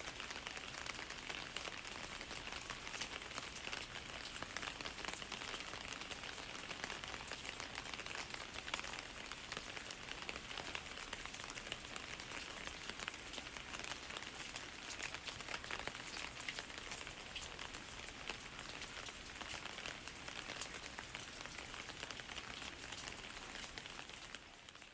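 Steady rain falling, with many individual drops ticking through it; it fades out at the very end.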